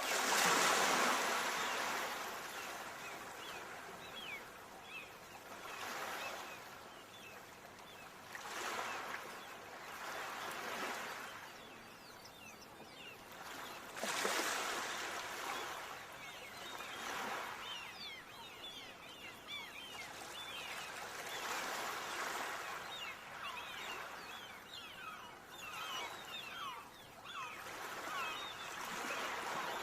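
Ocean waves breaking and washing up the shore, a surge every few seconds, the loudest right at the start and another about halfway through.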